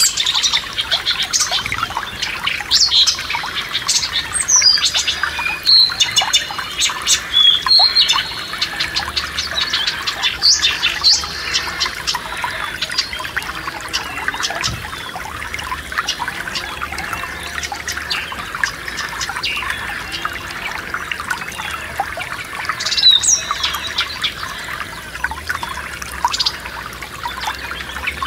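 Forest stream running with a steady trickling rush, while songbirds chirp and sing over it. The calls are busiest in the first eight seconds and pick up again about 23 seconds in.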